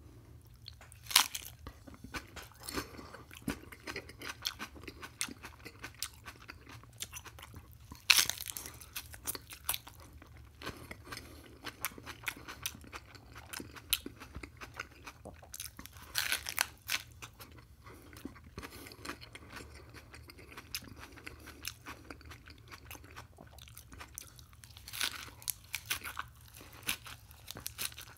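A man biting into and chewing a crisp lettuce wrap filled with rice: four loud crunching bites several seconds apart, with steady crunchy chewing between them.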